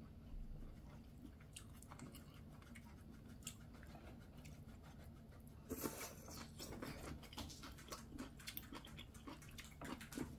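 Faint chewing and mouth sounds of a person eating braised kimchi, with scattered small clicks; the eating noise grows louder about six seconds in, as a mouthful goes in.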